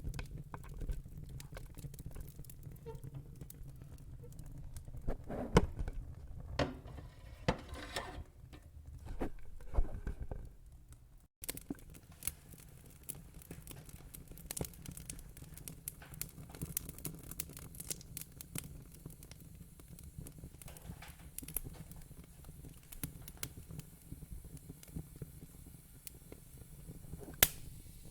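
Fire crackling, with irregular small snaps and pops over a low steady rumble and a few louder, sharper pops, the loudest near the end. The sound cuts out for a moment about eleven seconds in.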